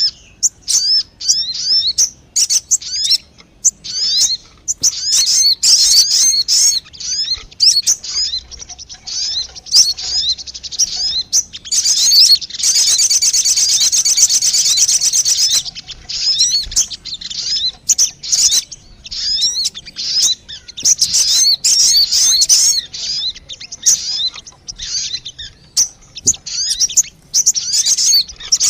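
Sogon birds calling in a lure recording (suara pikat): rapid, high-pitched twittering chirps in loud bursts separated by brief pauses.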